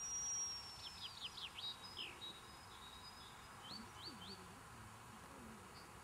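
Faint wild birdsong: a high held note, then a run of quick falling chirps about a second in and a few short rising notes around four seconds in.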